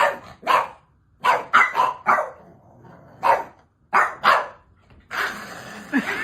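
A dog barking: about eight short barks in small groups, then a steadier rushing noise near the end.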